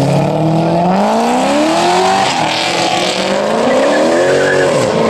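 Sports car engine revving hard as it accelerates away, its pitch climbing, dropping about two seconds in, then climbing again before falling near the end.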